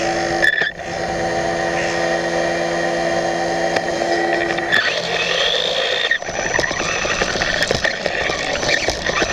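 RC motorbike's motor and drivetrain whining at a steady pitch, with a brief dip just under a second in. After about five seconds the steady whine gives way to a noisier mix of rattling and scraping as the bike runs on.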